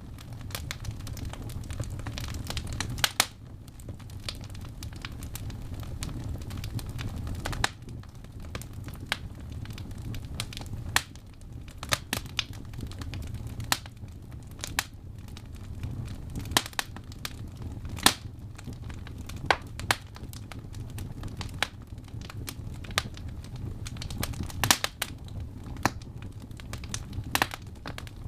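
Wood fire burning in a fireplace: a steady low rumble of the flames with irregular sharp crackles and pops from the burning logs, a few of them louder snaps.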